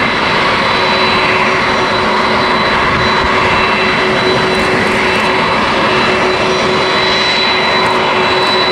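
Jet engines of a Delta Boeing 767 airliner running loud and steady close by, a rushing roar with a high steady whine over it.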